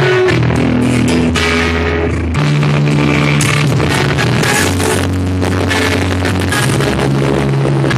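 Reggae song with guitar and a heavy, sustained bass line, played loud through a car audio system with a JBL Vulcano 3.8 15-inch subwoofer.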